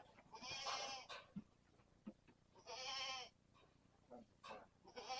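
Goat bleating: three loud calls, each well under a second long, about two seconds apart, with faint knocks in between.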